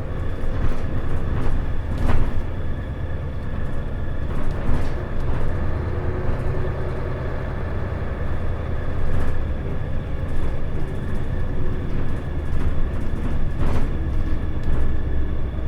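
Isuzu Erga diesel city bus heard from inside the cabin while driving: a steady low engine drone with a constant whine, and now and then brief rattles and clicks from the body.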